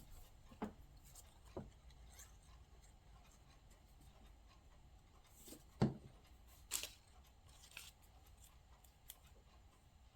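Soft, scattered taps and rustles of paper cutouts being handled and pressed down on a tabletop, with a few sharper knocks about 6 and 7 seconds in.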